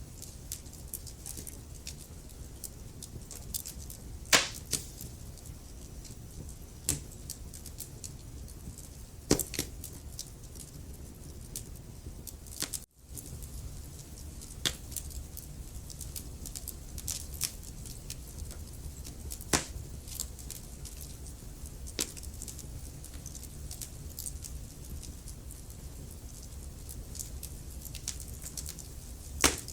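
Wood fire crackling, with frequent small pops and a few louder snaps over a low steady rumble. The sound drops out briefly about thirteen seconds in.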